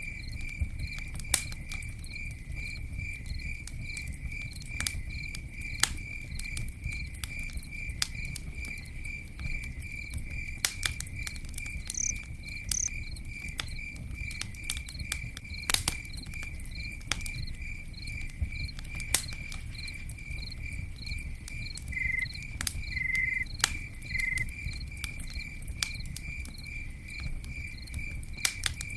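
Campfire burning, with irregular sharp pops and crackles over a low steady rumble. A cricket chirps steadily throughout, about three even chirps a second, and a second, lower chirp joins briefly a few times after about 22 seconds.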